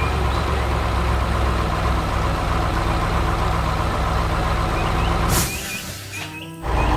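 Heavy truck engine running steadily. It drops away about five and a half seconds in and comes back loud about a second later.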